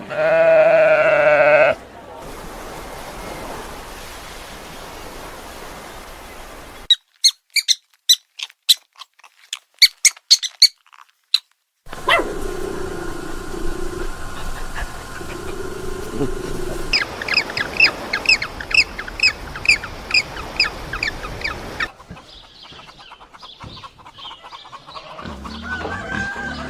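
A string of different animal calls one after another: a loud wavering call in the first two seconds, a run of sharp separate squeaks in near silence through the middle, then rapid repeated high chirps near the end.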